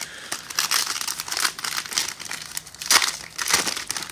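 Foil trading-card pack wrappers crinkling and tearing as packs are ripped open and handled, an irregular crackle with a louder tear about three seconds in.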